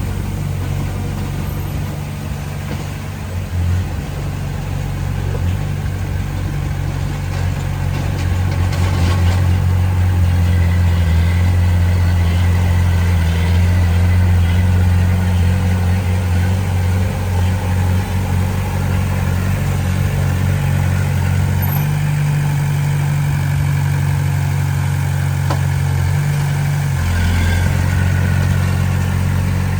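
Diesel engine of heavy earthmoving machinery running steadily. It grows louder about eight seconds in, and its note shifts a few times.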